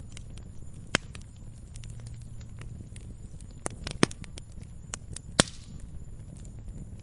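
Campfire burning: irregular sharp crackles and pops of burning wood over a low, steady rumble of flame, with louder pops about a second in, about four seconds in and near five and a half seconds.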